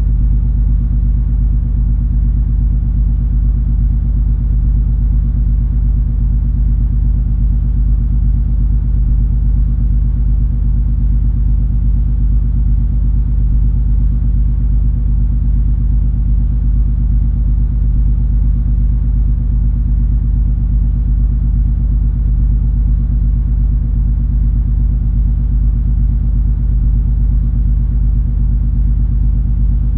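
Steady low rumble and drone of the cruise ferry MS Color Magic under way, its engines and machinery running evenly with no change in pitch or level.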